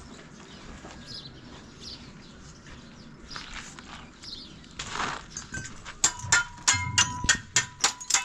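Faint outdoor background with a few short chirps. About six seconds in, a quick run of sharp metallic clinks starts, three or four a second, each ringing briefly.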